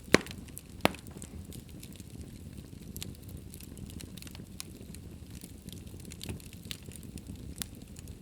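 Fire burning in a fireplace, crackling steadily over a low rumble of the flames, with two loud pops in the first second.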